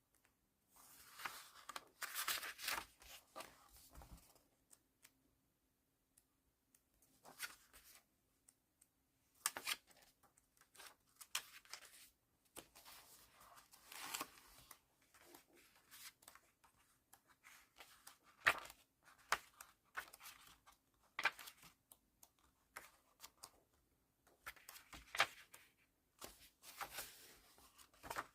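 Pages of a vintage hardback book being turned by hand, with paper rustling and flapping at irregular intervals every few seconds.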